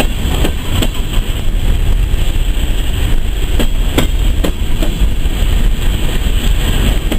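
Empty coal train rolling past at a grade crossing: a steady low rumble with repeated sharp clacks from the wheels.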